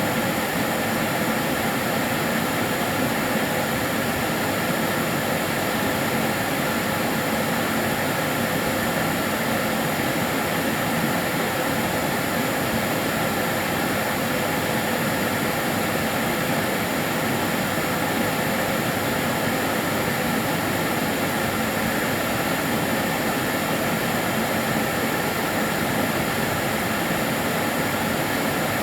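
Kärcher DS 6 Premium water-filter vacuum cleaner running steadily: a constant rush of air with a few faint steady tones, including a high whine, and no change in pitch or level.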